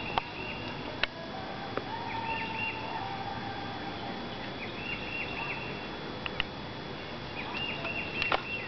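A songbird singing a short phrase of quick high descending notes, repeated about every two and a half seconds, over a steady outdoor hiss, with a few sharp clicks.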